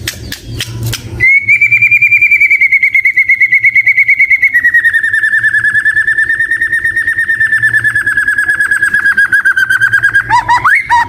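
White-rumped shama (murai batu) singing. A few short clicks lead into a long, fast, evenly pulsed trill on one high note that steps slightly lower partway through. Near the end it breaks into short, varied whistled notes.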